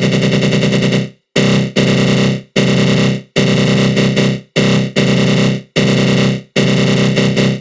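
Synthesized attack growl sound effect: a rough, buzzing synth tone from the GMS synth with a flanger effect. It repeats in bursts about a second long, each fading out and cutting off briefly before the next.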